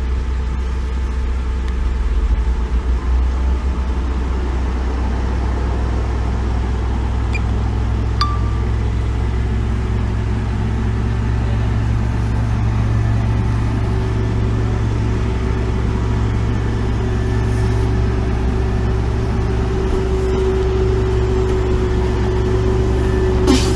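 Heavy diesel earthmoving machinery running steadily. The engine sound gets heavier about five seconds in, and a steady whine joins it about ten seconds in.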